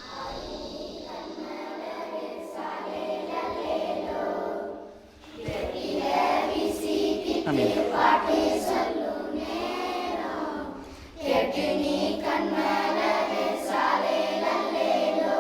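A group of children singing together in chorus, in long sung phrases that break off briefly about five seconds and about eleven seconds in.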